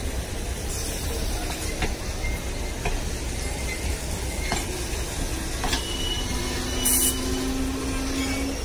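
Indian Railways passenger coaches rolling past on the track, with a steady low rumble and wheels clicking over rail joints every second or so. From about six seconds in a faint steady tone joins, and a brief hiss comes near seven seconds.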